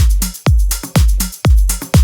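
Melodic techno music: a steady four-on-the-floor kick drum at about two beats a second, each kick dropping in pitch, with off-beat hi-hats between.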